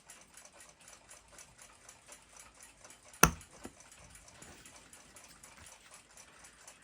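Steady, rapid clock ticking in the background, with one sharp click a little past the middle and a fainter one just after it: the cracked balance jewel being pressed out of its setting.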